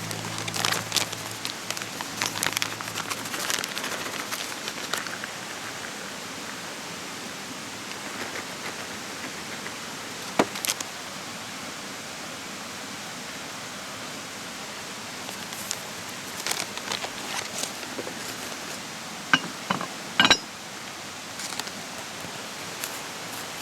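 Open wood fire crackling, with scattered sharp pops over a steady hiss.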